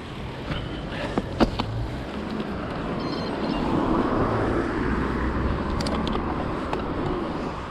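Wind buffeting a bike-mounted action camera's microphone over road traffic noise, with a car swelling past in the middle. A few sharp clicks come a little over a second in.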